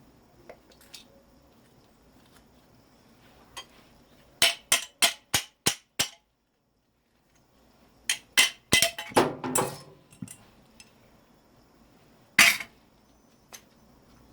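Hammer striking the metal parts of a scrap electric motor. A quick run of six blows is followed by a clattering cluster of strikes with metal rattling, then one more hard blow near the end.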